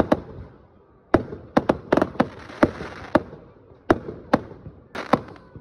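Fireworks going off: about a dozen sharp bangs and cracks at irregular intervals, some in quick pairs, with a hissing rush in the middle.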